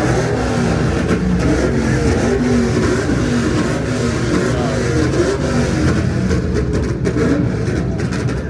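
Car engine running and revving, its pitch rising and falling.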